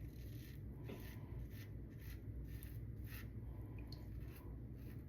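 Lambda Ares v2 safety razor with a Tatra blade scraping through lathered stubble in short, faint strokes, about two to three a second.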